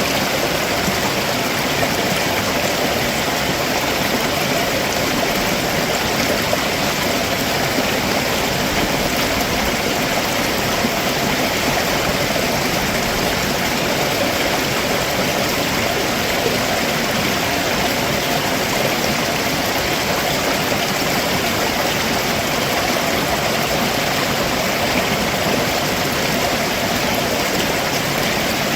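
Steady rushing of a rocky stream below a waterfall, water running over stones in an even, unbroken noise.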